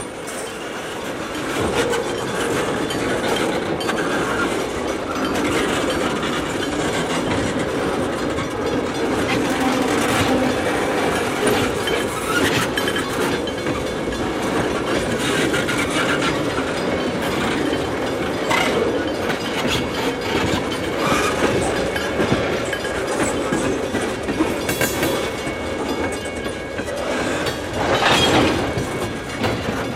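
Railway tank cars rolling slowly past, their steel wheels clacking irregularly over rail joints above a steady rolling rumble.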